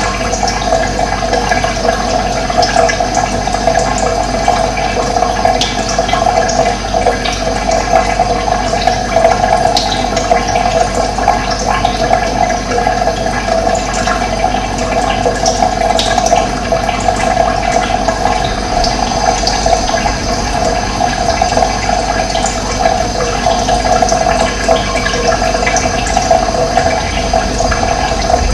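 Running water making a steady, even rush, with a few faint short high sounds now and then.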